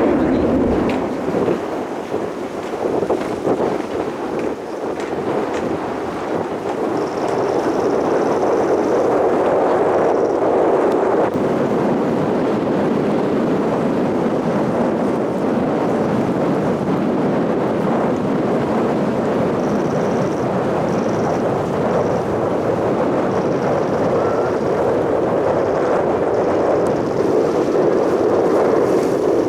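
Aermacchi MB-339 PAN jet trainers of the Frecce Tricolori flying a display, a steady, loud rushing roar with a faint high turbine whine coming and going.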